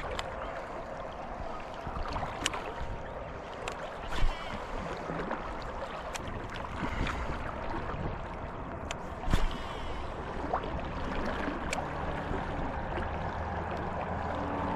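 Steady rush of river water, broken by a few sharp knocks or splashes, the loudest about four and nine seconds in.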